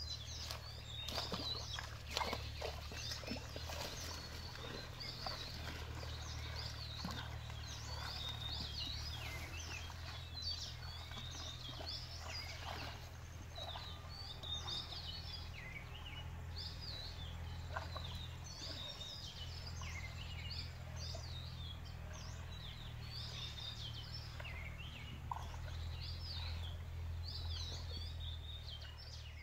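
Small birds chirping over and over in quick short calls, over a steady low hum. A few sharp clicks come in the first few seconds.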